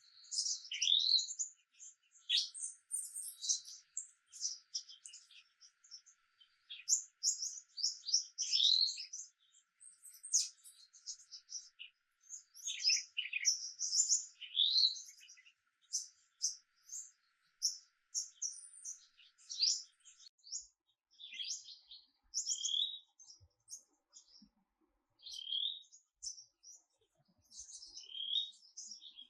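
Songbirds chirping and singing in quick, varied high-pitched phrases. The chirps are dense at first and thin out to sparser calls about two-thirds of the way through.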